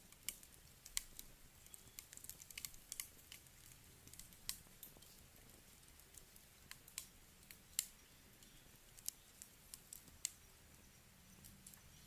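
Wood campfire crackling: irregular sharp pops and snaps, one to three a second, over a faint hiss.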